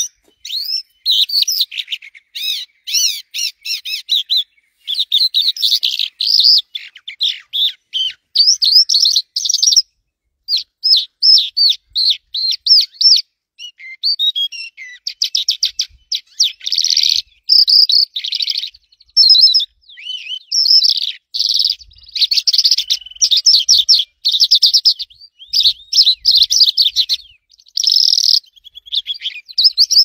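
A small bird singing: rapid, high twittering chirps in quick bursts with short pauses, going on almost without a break.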